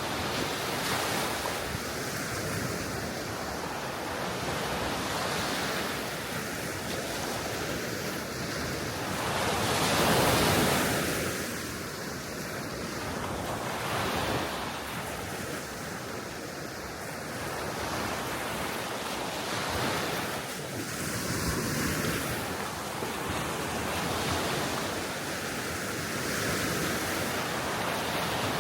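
Small waves washing onto the Baltic Sea shore, swelling and easing every few seconds with one louder wave about ten seconds in, with wind buffeting the microphone.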